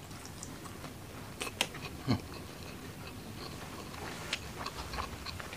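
Close-up eating sounds: a person chewing fried mackerel and rice with wet smacking and clicking mouth noises. A few sharper clicks come about a second and a half to two seconds in.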